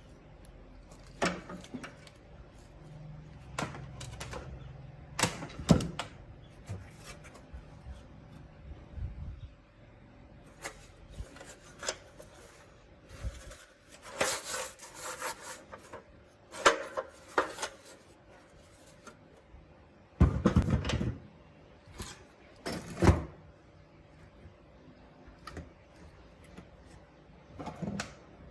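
Hands-on workbench work on a small plastic radio-cassette: scattered sharp clicks and knocks with a few short stretches of scraping or rubbing, over a faint steady hum.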